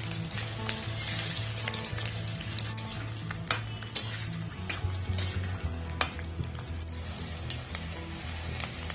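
Stuffed bitter gourds sizzling as they fry in hot oil in a pan. A spatula turning them clinks and scrapes against the pan several times around the middle.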